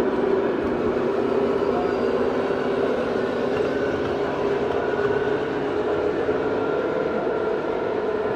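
Radio-controlled model machinery running: a steady mechanical drone with a few faint steady tones above it, unchanging throughout.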